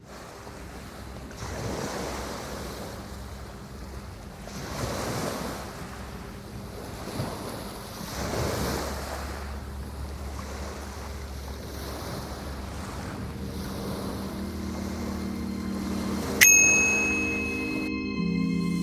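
Ocean surf washing in slow swells, with wind. Low sustained music tones build up underneath, and a sharp ringing, bell-like hit sounds near the end.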